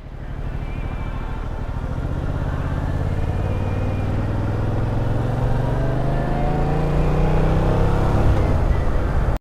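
Yamaha FZ-07's parallel-twin engine pulling steadily, its pitch rising slowly as the motorcycle gathers speed.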